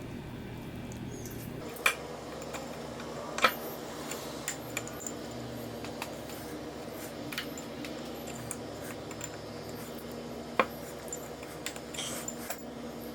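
Scattered light clinks and taps of small metal parts being handled, over a steady low hum.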